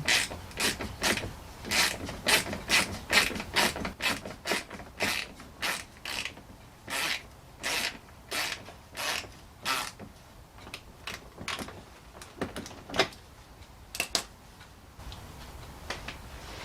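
Hand ratchet clicking as it drives in a front bumper cover bolt, about two clicks a second, stopping about 14 seconds in.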